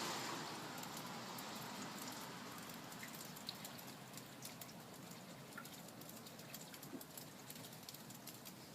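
Rain falling: a faint steady hiss with scattered raindrop ticks.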